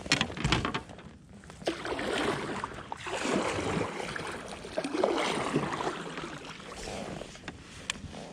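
Kayak paddle strokes splashing through the water in repeated swells, about one every one to two seconds. A few sharp knocks come at the start, typical of the paddle bumping the plastic hull.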